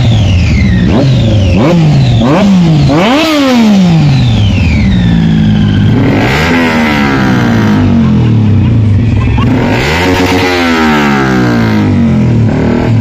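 Motorcycle engine being revved: a few quick throttle blips in the first four seconds, then two longer revs, each climbing fast and dropping back slowly to idle, about six and ten seconds in.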